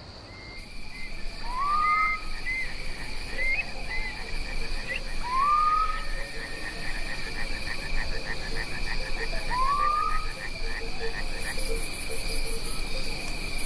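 Night chorus of crickets and croaking frogs, with an owl's short rising call repeated about every four seconds.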